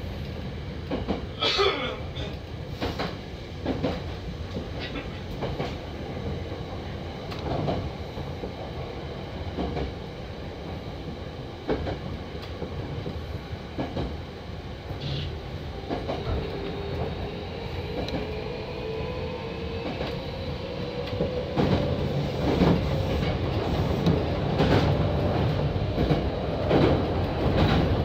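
Hankyu 7000 series electric train running, with a steady rumble and wheels clicking over rail joints at irregular intervals. About halfway through, a faint whine joins in and rises slowly in pitch. The running grows louder over the last several seconds.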